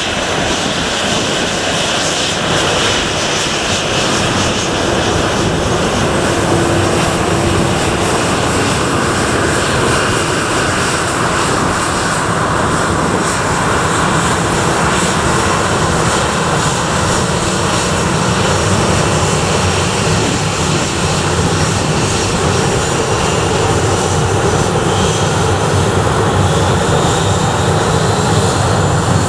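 Aircraft engines at a runway running loudly and steadily, a whine in them rising in pitch near the end.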